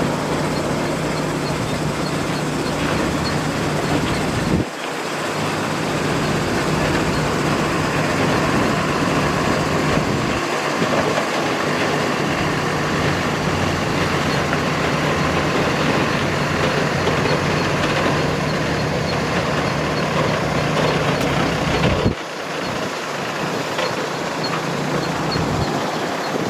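Heavy diesel construction machinery running steadily with a constant low engine hum, broken by two abrupt cuts where the sound drops and resumes.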